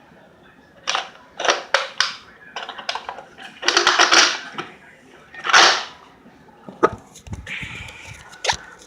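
Plastic clicks and rattles from handling a Nerf Rival Apollo XV-700 blaster, a string of sharp clicks and short rattling bursts at uneven intervals.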